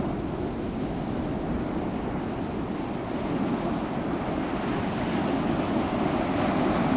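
Sea waves washing on a shore in a continuous rushing wash, swelling slightly near the end.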